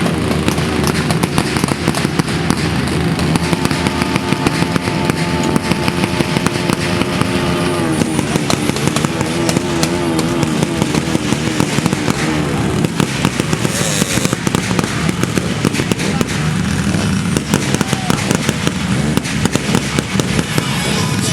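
Rapid, continuous crackling and popping, with wavering pitched sounds running underneath that shift about eight seconds in.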